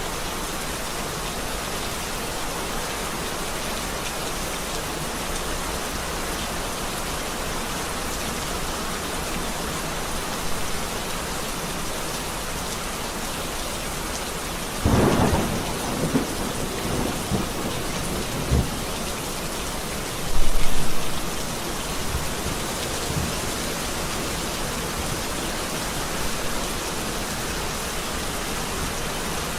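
Steady rain in a thunderstorm, with a sharp crack of thunder about halfway through that rumbles on for a few seconds, then a louder, deeper clap of thunder shortly after.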